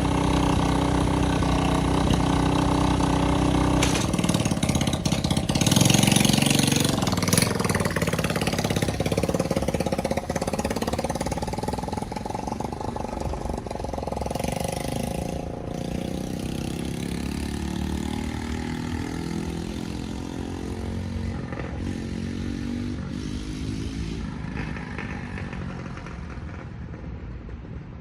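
Small ATV's engine running and revving, its pitch rising and falling, loudest about six seconds in and growing fainter toward the end.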